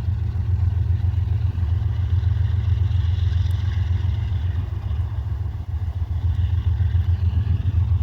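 Engine running with a steady, loud, low rumble that pulses rapidly and evenly.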